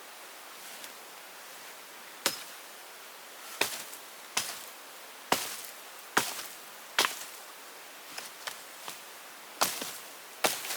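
A series of sharp knocks, about nine, coming unevenly at roughly one a second, over a steady hiss.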